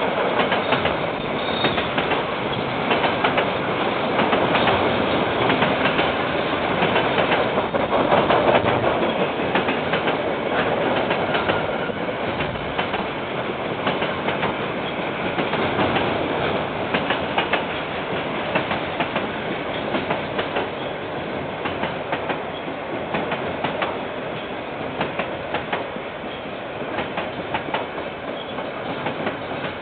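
A KiwiRail train rolling past, its wagon wheels clacking over the rail joints in a steady rapid run of clicks over a continuous rumble, easing slightly in loudness over the second half. Heard through a security camera's narrow-band microphone.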